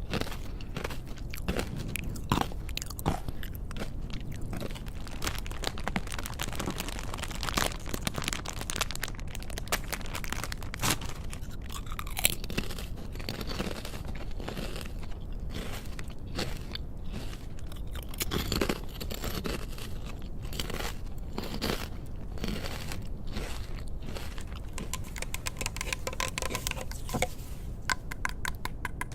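Close-miked crunching and chewing of a crunchy snack: a dense, irregular run of crisp cracks and crackles with no pause.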